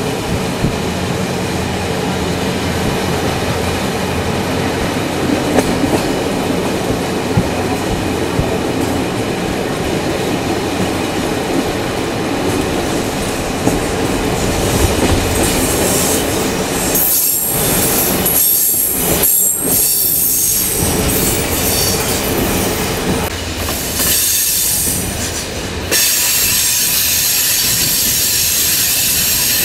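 Passenger train running on the rails, heard from inside the carriage as a steady rumble. From about halfway a loud high-pitched noise comes and goes over it, holding steady in the last few seconds.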